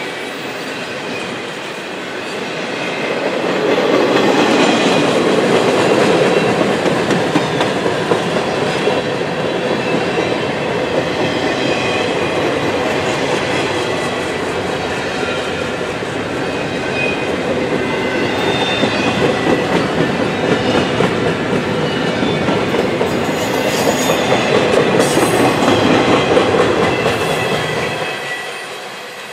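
Empty double-stack intermodal well cars rolling past: a steady rumble and clatter of steel wheels over the rails, with thin high squealing tones at times. The sound drops away quickly near the end as the last car goes by.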